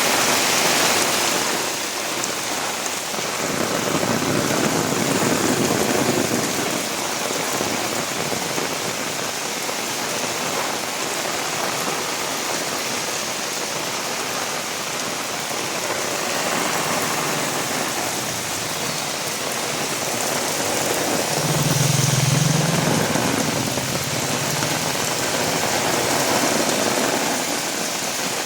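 Steady heavy rain falling and pattering on surfaces, an even hiss throughout, with a brief low rumble a little over twenty seconds in.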